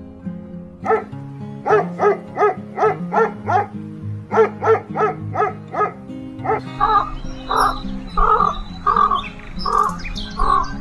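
Short animal calls repeated about three a second over steady background music, changing about two-thirds of the way through to a harsher call repeated about twice a second.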